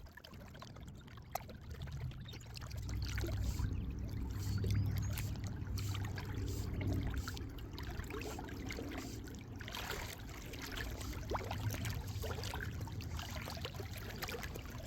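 Lakeside ambience: faint water lapping and trickling over a low rumble that swells in the middle, with scattered small clicks.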